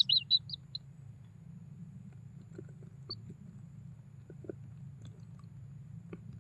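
A bird gives a quick burst of about five high chirps in the first second. After that come only a few faint clicks over a steady low hum.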